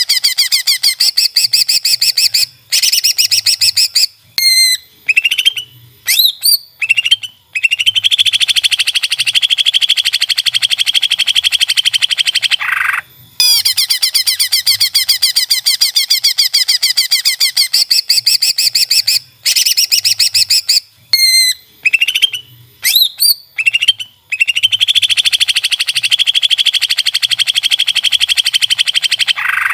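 Cucak ijo (green leafbird) song: long, very fast trills alternating with a few quick sweeping whistled notes. The same sequence of phrases repeats about every 16–17 seconds, as a looped song recording.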